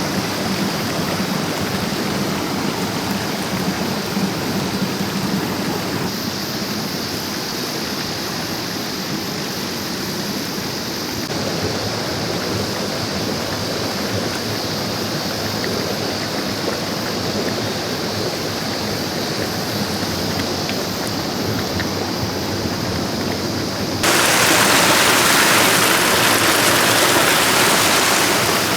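Mountain stream rushing steadily over rocks. About 24 seconds in, a louder, brighter rush of water takes over for several seconds.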